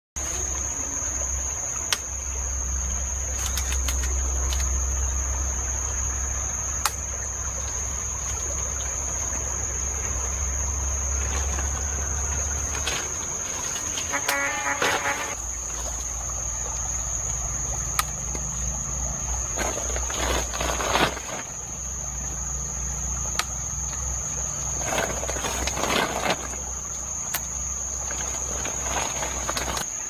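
Insects, crickets or similar, giving one steady, unbroken high-pitched trill, over a low rumble and a few scattered clicks.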